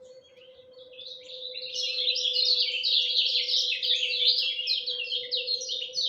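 Kecial kuning, a white-eye, singing a fast, unbroken chattering run of high notes that swells in about a second in and stays loud. A steady low hum runs underneath.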